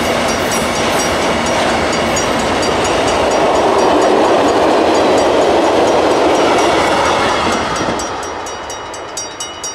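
Ore train of hopper wagons rolling past at speed: a steady rumble and rush of wheels on rail that fades as the last wagon goes by, about eight seconds in. Near the end a rapid, evenly repeated ringing comes through, the level-crossing bell.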